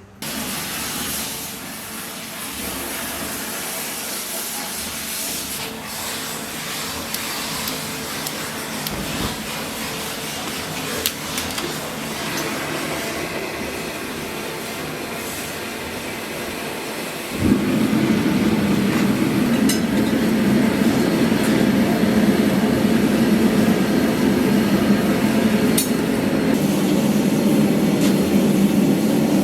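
Steady workshop machine noise with a few light metallic clinks. A bit over halfway in it gets louder and fuller as a heavier running sound starts up.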